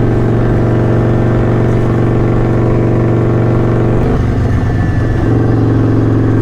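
Kawasaki Vulcan 900's V-twin engine running steadily under way. About four seconds in, its note briefly breaks up and then settles at a slightly different pitch.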